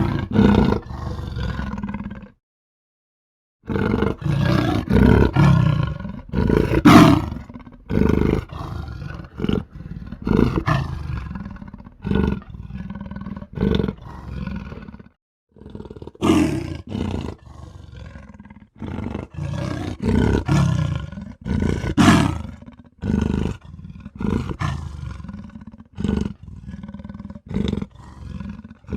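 A string of edited big-cat roar, growl and snarl sound effects made for a cartoon mountain lion, one short burst after another with hard cuts between them. About two seconds in they stop dead for a little over a second, and there is another brief cut to silence about halfway through.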